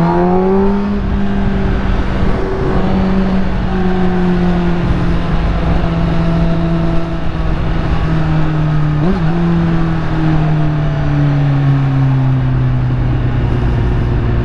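Kawasaki Ninja ZX-10R's inline-four engine through an aftermarket full titanium exhaust, under way: the note rises as it accelerates in the first second, then holds and slowly falls as the bike rolls off, with a brief blip about nine seconds in.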